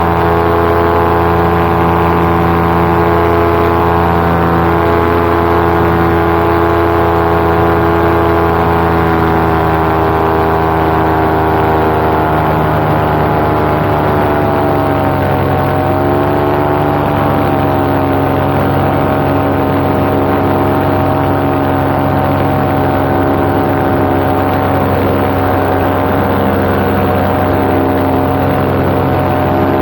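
Paramotor engine and propeller running steadily in flight. Its pitch eases down slightly about twelve to sixteen seconds in, then holds at the lower note.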